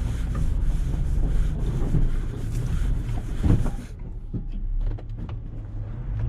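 Snow-plow truck engine running with a steady low rumble during a plowing pass. A hiss over it cuts off suddenly about four seconds in, and a few short clicks and knocks follow.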